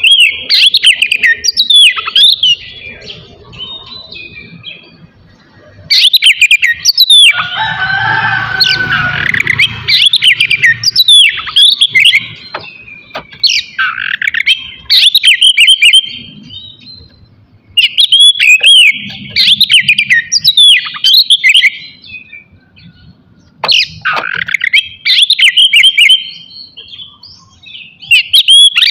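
Oriental magpie-robin (kacer) singing loudly in repeated bouts of rapid, sharply sliding whistled phrases, with short pauses between bouts. A harsher, scratchy stretch comes about a quarter of the way in.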